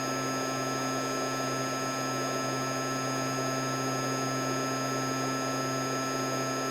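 Workshop air-handling system running steadily, a loud even rush of air with a constant hum under it.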